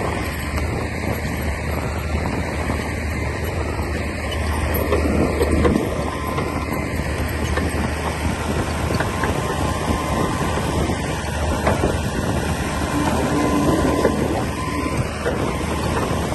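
Komatsu D60P crawler bulldozer working: its diesel engine runs with a steady low drone, and short clanks come from the machine as it moves.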